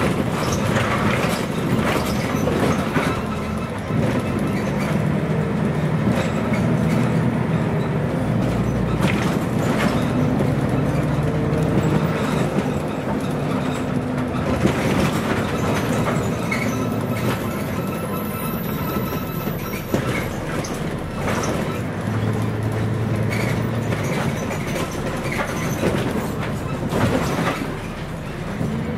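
Scania CN113CLL city bus on the move, its Scania DSC 11.71 diesel engine running through the Voith automatic gearbox. The engine note shifts in pitch and level several times, over a constant rumble with rattles and knocks from the bus body.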